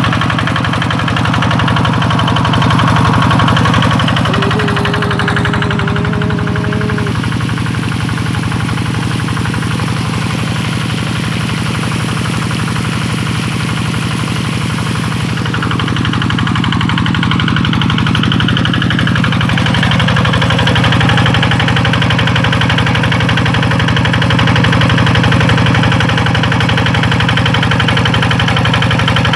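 Single-cylinder Kubota 12 hp diesel engine running steadily under load, driving a 5-inch suction pump.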